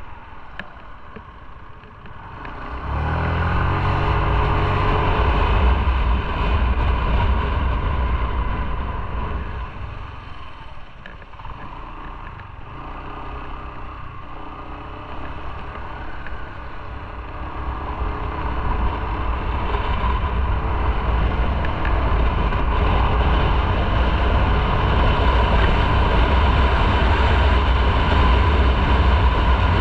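Motorcycle being ridden on the road. About three seconds in it pulls away with its engine pitch rising. It eases off around the middle, then picks up speed again and runs steadily.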